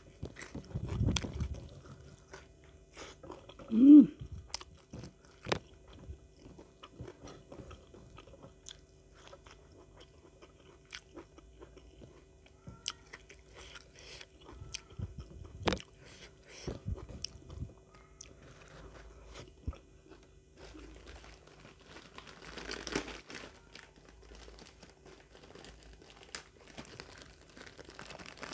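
Close-up eating sounds: chewing and crunching a mouthful of rice and fresh green leaves with sambal, with scattered wet clicks and smacks. One brief louder pitched sound about four seconds in, and plastic rustling near the end.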